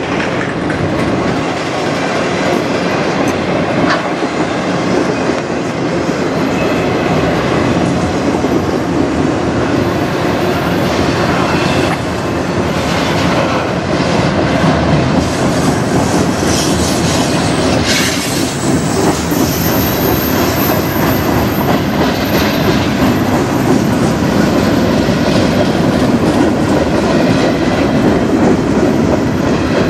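Freight train cars (autoracks, covered hoppers and tank cars) rolling past close by: a steady rumble of steel wheels on rail, with repeated clicks as the wheels cross rail joints.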